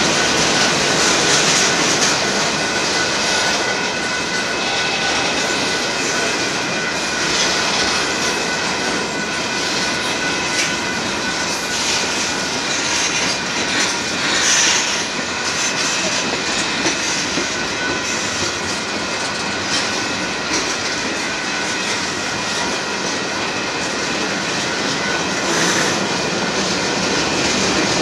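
Cars of a freight train rolling past close by: a steady rumble and rattle of steel wheels on the rails, with a thin steady whine from the wheels and a couple of sharper clanks.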